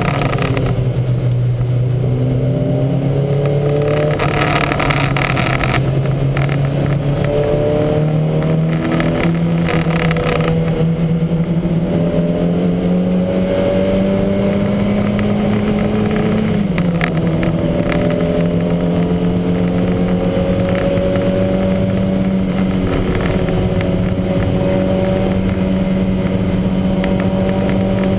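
Lancia Montecarlo race car engine pulling hard under load, its pitch climbing slowly in each gear, with a gear change right at the start and another about two-thirds of the way through. The engine has a heavy misfire.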